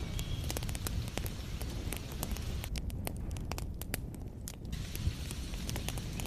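Wood fire crackling with frequent sharp pops over a low, steady rumble, with a hiss of rain behind it. The hiss thins out for about two seconds in the middle while the crackles go on.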